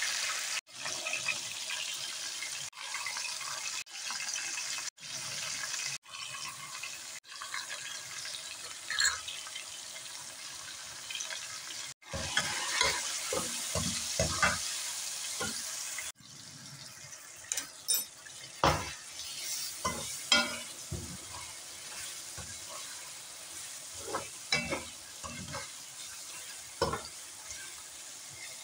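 Chicken pieces and sliced onion frying in oil in a metal pot: a steady sizzle, with a perforated metal skimmer spoon scraping and knocking against the pot as it is stirred. The sizzle breaks off abruptly several times and is quieter in the second half, where the spoon's scrapes stand out.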